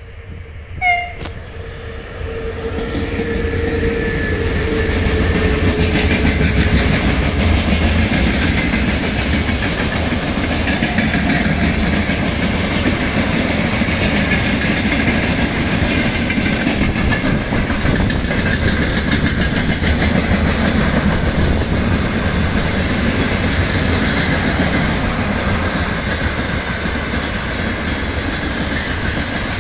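Freight train behind a VL11 electric locomotive gives a short horn toot about a second in, then rolls past, its wagon wheels clattering over the rail joints in a loud, steady rumble. A steady hum fades out over the first several seconds.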